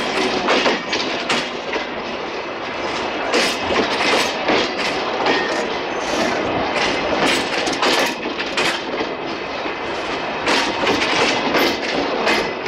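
Bangladesh Railway passenger coaches of the Silkcity Express rolling past at close range at low shunting speed. Their steel wheels rumble on the rails and clack irregularly over the rail joints.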